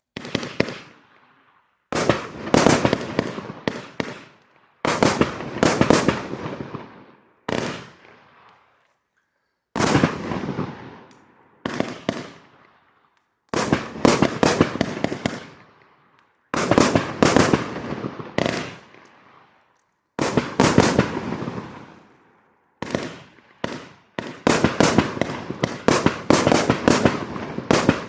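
A 30 mm multi-shot fireworks cake firing in quick volleys: groups of sharp bangs, each group dying away before a short pause, about ten groups in all.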